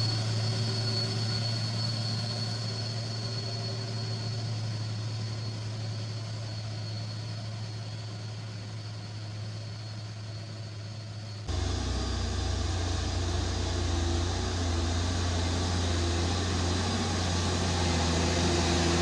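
Diesel engine of a loaded coal truck running steadily on a long uphill climb, slowly fading away; about eleven seconds in the sound cuts abruptly to a louder, closer truck engine that builds slightly.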